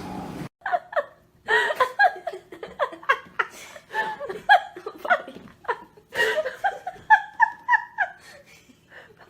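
A person laughing in many short, choppy bursts of giggles.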